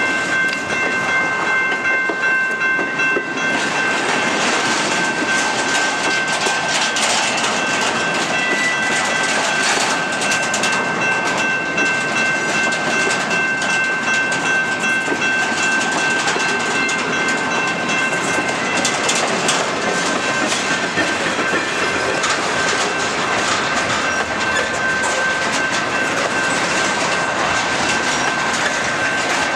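Intermodal freight train's well cars rolling past, a steady rush of wheels on rail with many clicks as the wheels cross the rail joints, and a thin, steady high-pitched tone over it.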